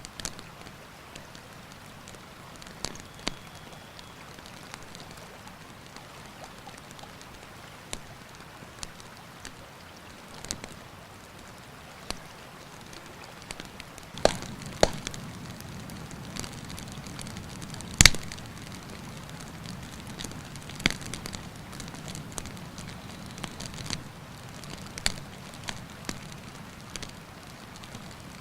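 Wood campfire crackling, with irregular sharp pops and snaps, the loudest about two-thirds of the way through, over the steady rush of a river.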